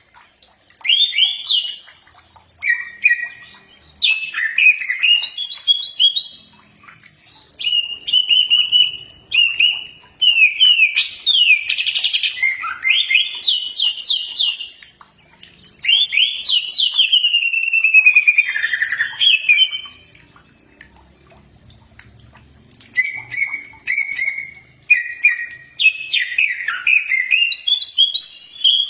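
Cucak ijo (green leafbird) singing: loud phrases of quick whistled notes, repeated chirps and sweeping up-and-down glides, with short pauses between phrases and one longer pause of about three seconds in the latter half.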